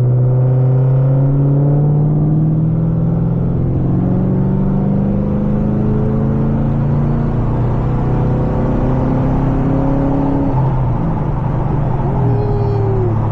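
2010 Camaro 2SS's 6.2-litre V8, breathing through long-tube headers and straight pipes, pulling hard under throttle: the exhaust note climbs steadily in pitch for about ten seconds, then drops back and holds steady near the end.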